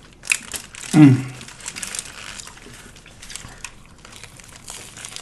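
Close-miked eating: chewing and crunching of a lettuce-wrapped sub, with crisp wet clicks and the crinkle of the wrapper paper. A short "mm" hum, falling in pitch, about a second in.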